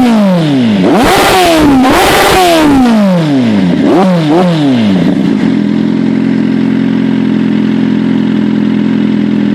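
Kawasaki Z800's inline four-cylinder engine through an Ixil Hyperflow dual-exit aftermarket silencer, revved in neutral: two big throttle blips, then two quick short ones, each rise and fall in pitch, before settling back to a steady idle.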